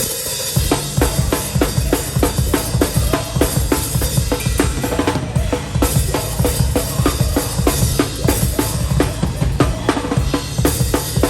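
Live hardcore band at full volume with the drum kit up front: rapid, driving kick drum and snare hits over heavy distorted guitar and bass, kicking in sharply right at the start.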